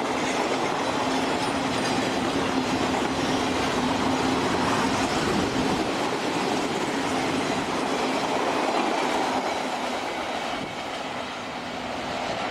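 Railroad cars rolling past on the track, a dense steady rumble and rattle with a steady hum, easing off about ten seconds in.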